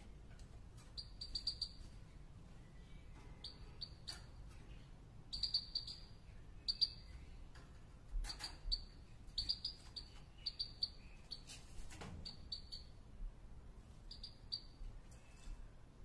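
A bird giving short, high chirps in quick clusters of two to four notes, repeating every second or so, with a few soft knocks between them.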